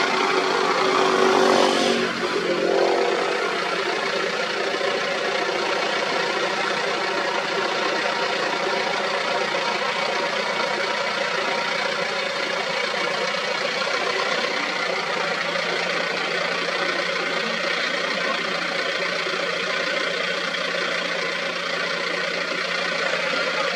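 A motor vehicle's engine idling steadily, louder and harsher for about the first two seconds.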